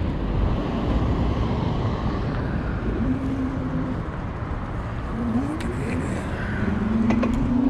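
Wind rumble on the microphone and road noise from riding an electric bike in city traffic, with cars around. A whine rises steadily in pitch near the end.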